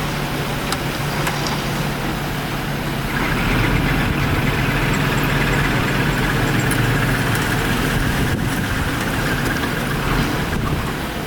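Heavy diesel engine of earthmoving machinery running steadily with a low hum. A higher whine joins about three seconds in and carries on.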